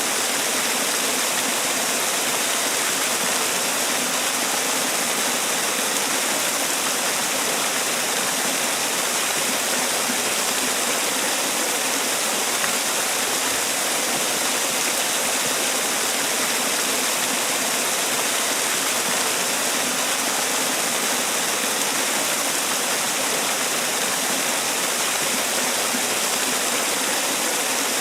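Man-made waterfall: water falling and splashing in a steady, unbroken hiss.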